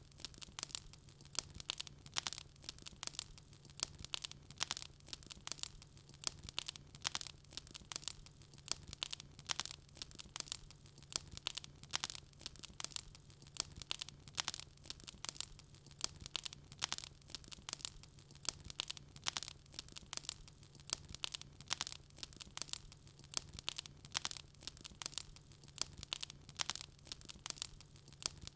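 Wood fire crackling, with many small irregular pops and snaps several times a second over a faint steady low hum.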